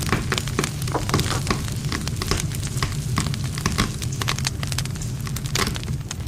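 Wood campfire burning, with dense, irregular crackling and popping of the burning wood over a steady low sound of the flames.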